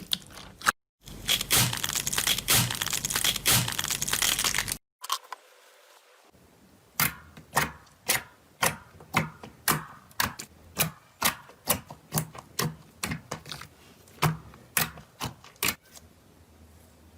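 Slime handled close to the microphone: a few seconds of dense crackling, then, after a cut, a run of sharp separate pops and clicks about two a second as it is pressed and released.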